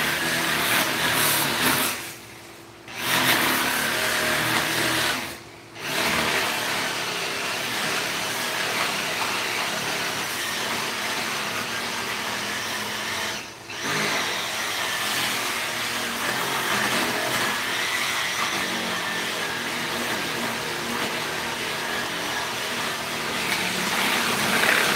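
A motor running steadily, cutting out briefly three times, about two, five and a half and thirteen and a half seconds in.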